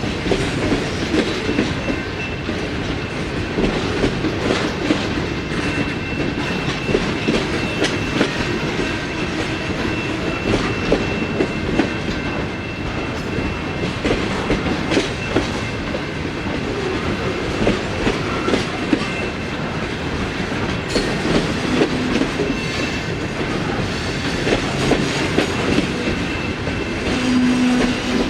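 Freight train rolling past, its cars' wheels clicking repeatedly over rail joints over a steady rumble, with a faint steady high whine. A brief low tone sounds near the end.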